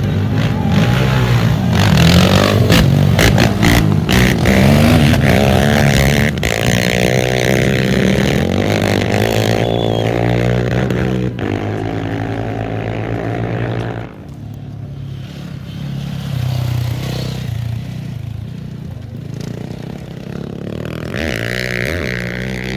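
Off-road racing engines running and revving close by, with clattering and scraping mixed in. The sound is loudest through the first half and drops off sharply about two-thirds of the way in.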